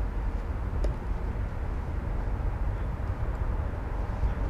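Steady low rumble of outdoor background noise, with one faint click about a second in.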